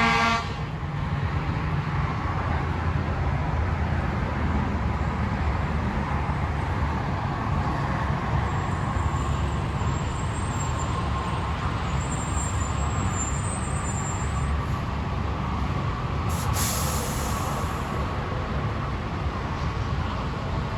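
A pitched vehicle horn cuts off just as the clip starts. After it, vehicle engines run at the roadside as a steady low rumble, with a brief high hiss about three quarters of the way through.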